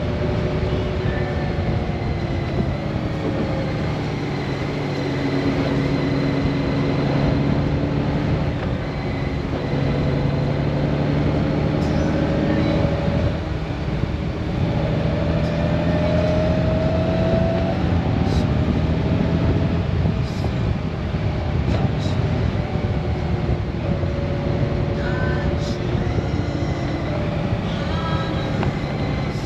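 Honda Gold Wing's flat-six engine running under way, its pitch slowly rising and falling with speed, over steady road and wind noise.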